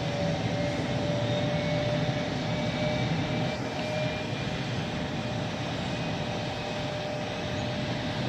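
Bombardier CRJ900 regional jet's twin turbofan engines running, a steady whine over an even rushing noise.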